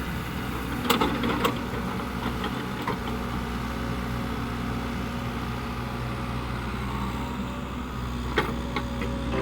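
Caterpillar 307E2 mini excavator's diesel engine running steadily, with a few short sharp knocks, the loudest about a second in and another near the end.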